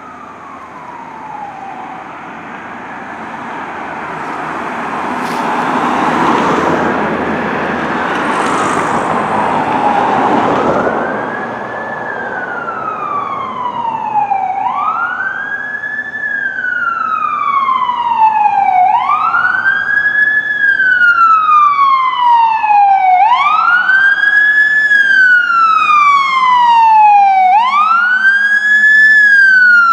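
Fire engine siren on a wail. Each cycle sweeps up quickly and then glides slowly down, repeating about every four seconds. For the first ten seconds or so it is half-buried in a loud rush of noise that peaks around six to ten seconds in; after that the siren sounds clear and grows louder.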